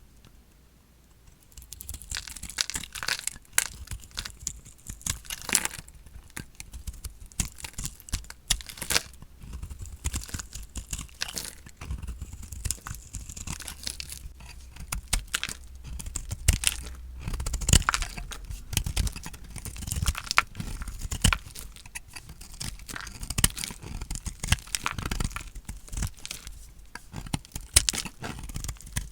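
Dry, painted bar soap being cut with a blade, crunching and crackling in a dense, uneven run of small cracks that starts about a second and a half in.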